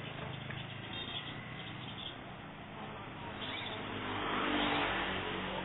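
Long-tailed shrike (cendet) giving a few short high call notes over a steady low hum. About four seconds in, a swell of noise rises, becomes the loudest sound, and fades.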